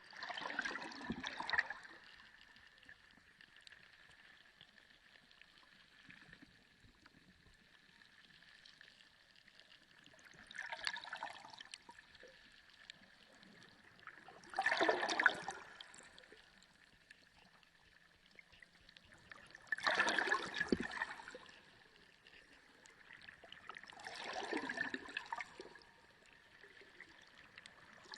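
Sea water surging in repeated washes, each lasting a second or two and coming every four to five seconds, with a quieter gurgling hiss in between. A faint steady high tone runs underneath.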